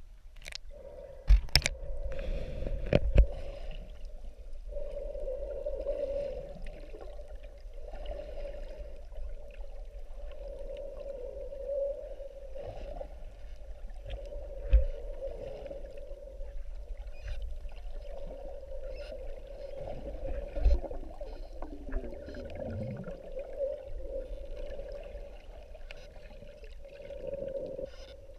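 Underwater sound picked up by a camera underwater: a steady drone with wavering tones that slide down in pitch, scattered clicks, and a few sharp thumps, loudest in the first few seconds.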